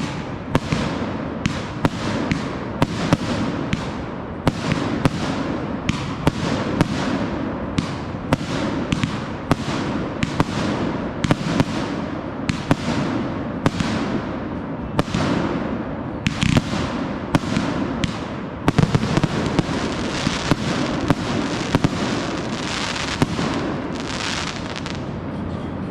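Consumer fireworks going off in a dense, continuous barrage: sharp bangs about two or three a second over a steady crackle, with one especially loud bang a little past halfway.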